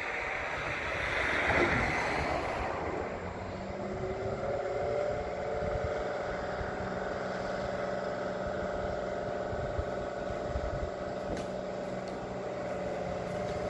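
Drill rig truck running steadily, a hum with a few steady tones, with wind rushing on the microphone. A gust swells in the first couple of seconds before the machine's hum comes to the front.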